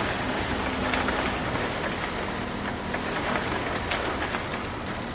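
Steady hissing noise full of small ticks, with a faint low machine hum under it.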